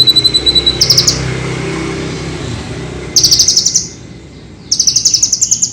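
Kolibri ninja sunbird singing in bursts of fast, high trills, with a thin steady high whistle at the start, over a low background hum.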